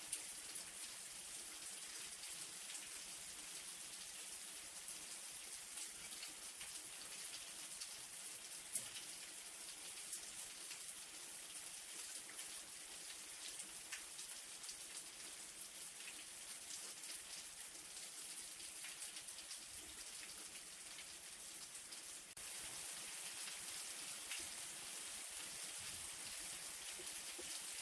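Light rain falling: a steady soft hiss with many faint scattered drop ticks. It steps up slightly in loudness about three-quarters of the way through.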